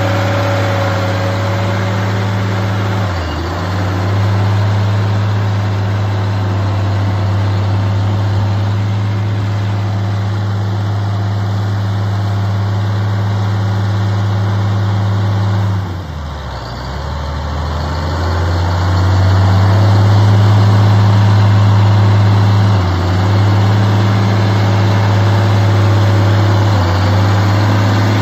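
Diesel engine of a CAT Challenger 85C crawler tractor running with a steady low hum. It sags briefly a few times, most deeply about sixteen seconds in, then picks back up.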